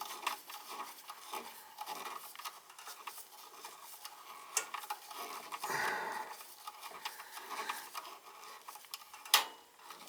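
Small clicks and rubbing as thermostat control wires are handled and fastened at their terminals, with one sharper click near the end.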